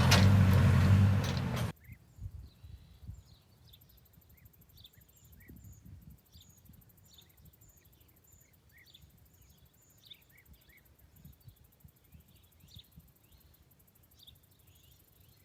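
A vehicle engine running, cutting off abruptly under two seconds in; then quiet open-air ambience with small birds chirping repeatedly and a faint low rumble.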